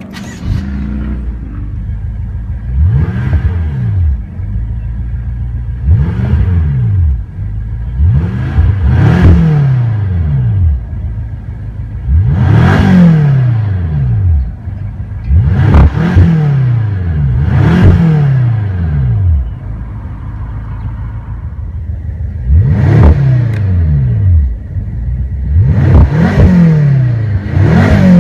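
BMW M6 Gran Coupe's 4.4-litre twin-turbo V8 fires up near the start and settles into a steady idle, heard from inside the cabin. It is then revved about ten times in neutral, each a quick rise and fall in pitch.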